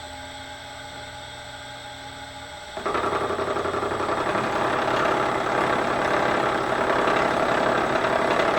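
Bridgeport milling machine running with a steady hum, then about three seconds in a sudden, much louder rough grinding noise as the cutter bites into the metal part and keeps cutting.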